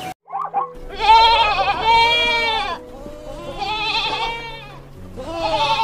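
Goat bleating three times in long, wavering calls, the first the longest, after a short call at the start.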